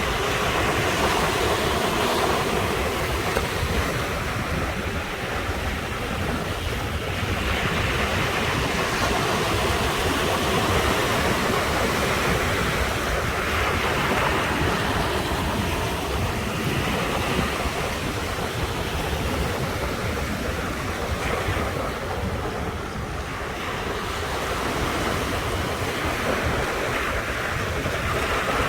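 Ocean surf breaking on the shore: a continuous wash of waves that swells and eases every few seconds as each wave comes in.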